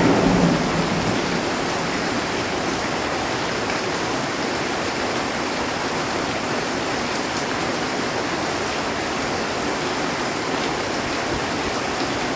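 Heavy rain on a metal roof, a steady, dense hiss. A thunder rumble fades away in the first second.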